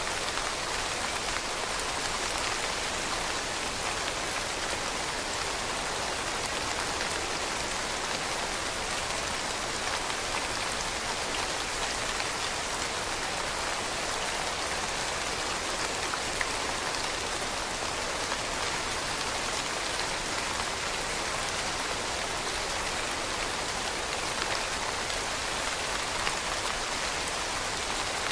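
Steady rain falling on leaves: an even hiss with fine, scattered pattering of drops.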